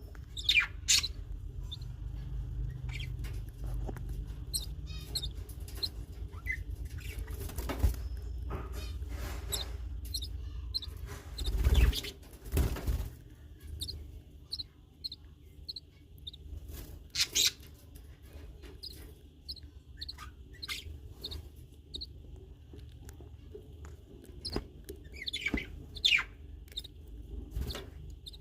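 Small cage birds cheeping: short high chirps repeated about twice a second in runs, among scratchy rustles and sharp knocks, over a steady low hum.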